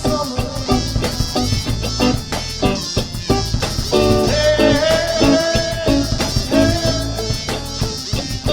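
Band music: guitar and drums playing with sustained melodic notes over a steady beat.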